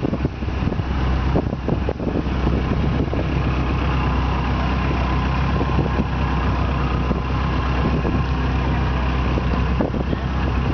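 Motorboat engine running steadily at an even pitch, heard on board.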